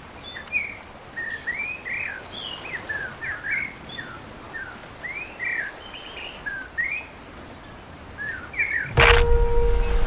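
Birds chirping and calling, many short quick chirps over a faint outdoor hiss. About nine seconds in, a sudden loud hit starts music with held tones and deep bass, which is the loudest part.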